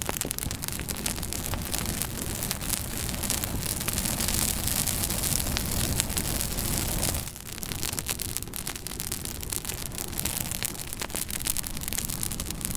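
Wood fire in a fireplace crackling, with many sharp pops over a steady hiss; the hiss swells in the middle and drops back a little past halfway.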